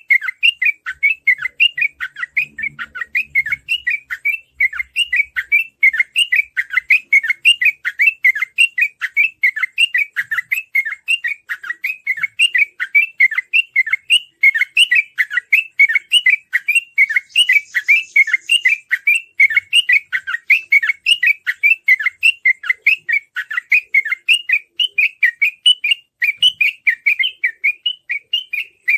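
Yellow-vented bulbul (trucukan) singing in 'ropel' style: an unbroken, rapid run of short chirping notes, about three to four a second, with no pauses.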